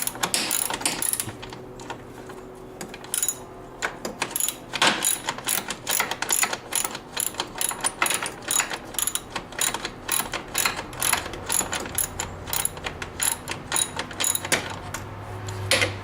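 Hand ratchet wrench clicking in quick runs of strokes, with a lull of a couple of seconds about two seconds in.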